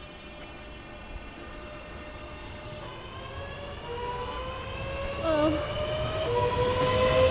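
Electric multiple-unit train's traction motors whining, with several tones rising slowly in pitch and growing louder as it gets under way, over a low rumble.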